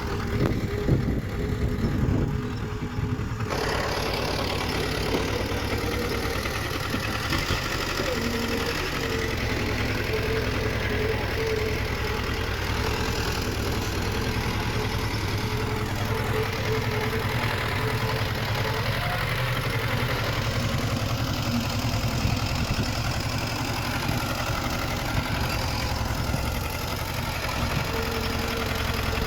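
Diesel engine of heavy earthmoving machinery running steadily, its sound growing fuller and brighter abruptly about three and a half seconds in.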